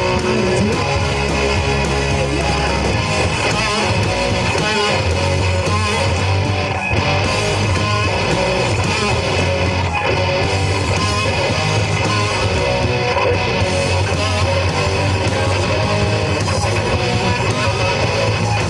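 Live rock band playing an instrumental passage: distorted electric guitars, bass guitar and drums, with no vocals.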